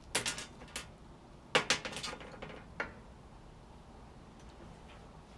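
Small parts of a washing machine door switch clicking and clattering as they are handled and fitted into the switch housing: a quick run of sharp clicks in the first second, and a second, louder run from about a second and a half to nearly three seconds in.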